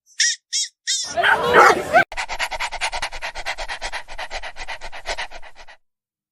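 A dog vocalising: a few short high calls, about a second of whining cries, then quick, even rhythmic pulses, about eight a second, for some three and a half seconds, which stop suddenly.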